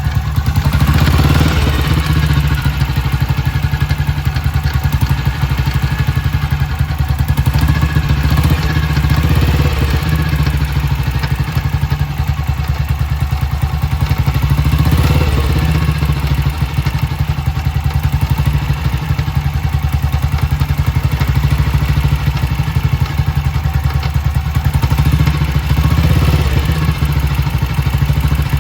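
1956 BSA Gold Star DB34's 500 cc single-cylinder engine running, its revs rising briefly a few times. This run follows a clutch strip-down meant to cure a knock from the primary-drive side.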